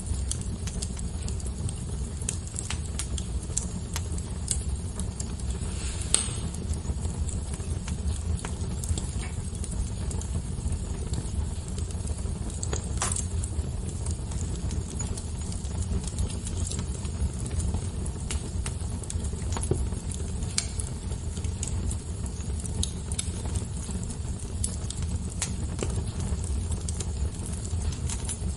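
Wood fire crackling: a steady low rumble of burning with irregular sharp snaps and pops, a few louder ones scattered through.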